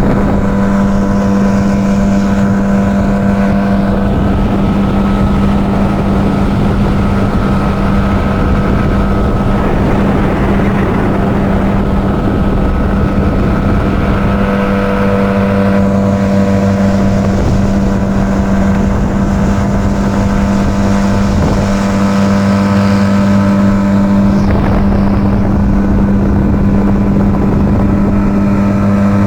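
Boat's outboard motor running steadily at a constant speed, with a strong steady drone and rushing noise.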